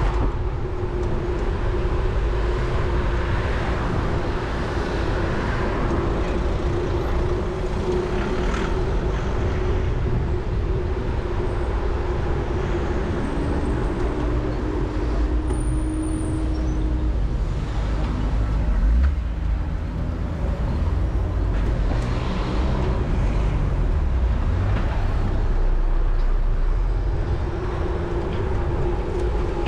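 Road traffic noise: passing motor vehicles over a steady low rumble, with several vehicles swelling up and fading away.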